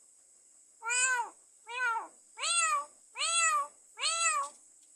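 Pet myna mimicking a cat's meow: five separate meow-like calls of about half a second each, every one rising then falling in pitch.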